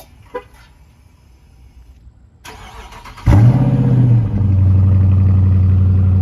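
Two short clicks, then the Dodge Charger R/T's 5.7-litre Hemi V8 cranks and, a little over three seconds in, fires with a loud flare of revs that drops after about a second into a steady cold-start high idle. The exhaust is still stock, with mufflers and resonators in place.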